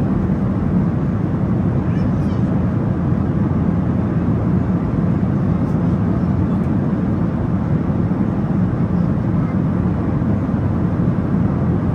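Steady low cabin roar of a Boeing 737-800 in flight, the CFM56 jet engines and the rush of air along the fuselage heard from a passenger seat.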